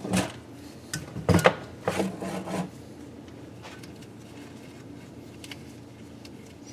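Hand thread chaser being turned in an exhaust-side bolt hole of the cylinder head, metal rubbing and scraping against metal in three short bursts within the first three seconds, then only faint ticks.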